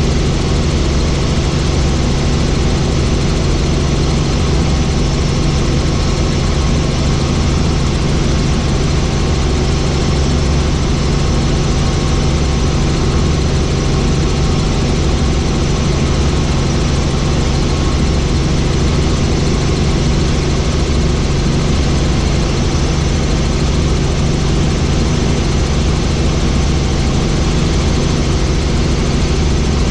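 Helicopter in flight: a loud, steady drone of rotor and engine with a fast low pulsing from the rotor blades.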